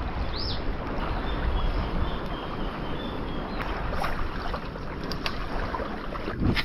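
Steady wind and sea noise at the shoreline, with wind rumbling on the microphone, and a single thump near the end.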